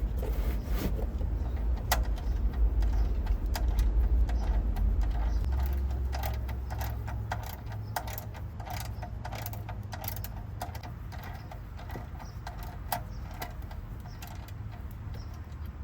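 Small metallic clinks and rattles of hand tools being handled, thick in the middle seconds, over a low rumble that is strongest in the first six seconds and then eases.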